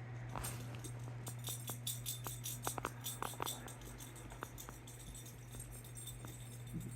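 Faint, irregular light jingling and ticking, like a dog's collar tags as the dog moves and sniffs about, over a steady low hum.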